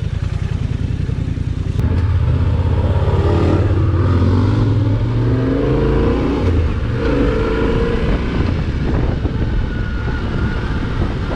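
Dual-sport motorcycle engine running, louder from about two seconds in, its pitch rising and falling as the throttle is worked.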